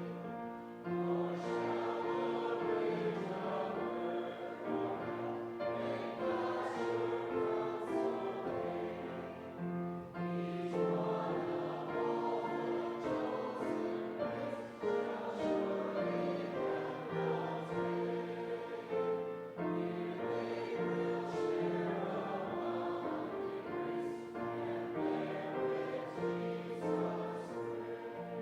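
Church congregation singing a hymn together, holding long notes that change in a slow, regular rhythm.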